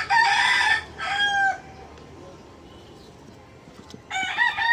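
A rooster crowing twice: one crow right at the start with a held, falling final note, and another beginning about four seconds in.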